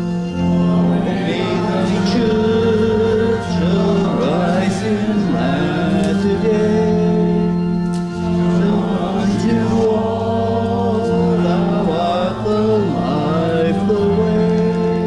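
A congregation singing a hymn in long held notes, with organ accompaniment.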